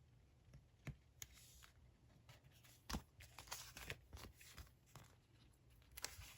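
Faint paper handling at a desk: soft rustling with a few light taps and clicks, the sharpest about three seconds in.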